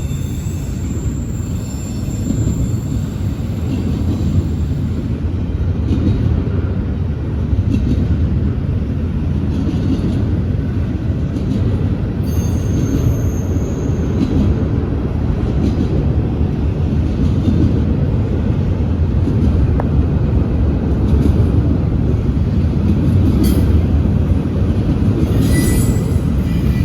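Freight train rolling past with a steady low rumble of wheels on rail. Brief high-pitched wheel squeals come near the start and again around the middle.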